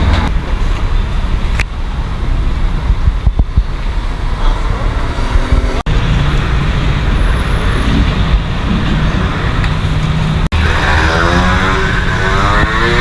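Road traffic: steady rumble of passing vehicles' engines and tyres. Near the end an engine note sweeps up and down as a vehicle goes by.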